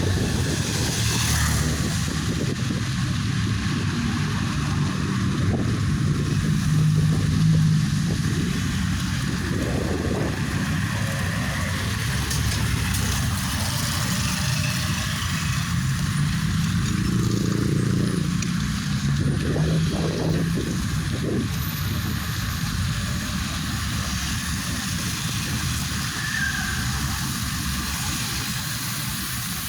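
A motor vehicle on the move: a steady low rumble of engine and road noise.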